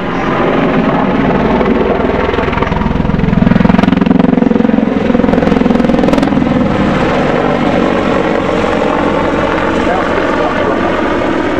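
Army Air Corps Apache attack helicopter flying a display pass, its rotor and engines sounding loudly and swelling to their loudest about 3 to 6 seconds in as it comes closest.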